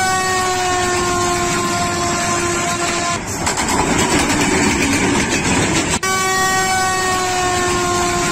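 Arriving locomotive's horn sounding a long blast on one steady, slightly falling note for about three seconds. The rumble and clatter of the train follows, then a second long horn blast from about six seconds in.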